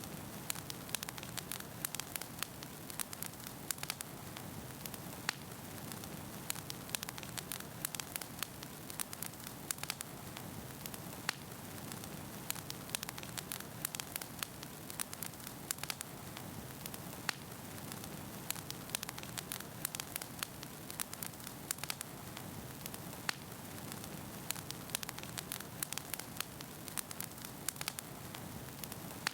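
Wood fire burning in a fireplace: a steady hiss with frequent sharp crackles and pops of burning logs.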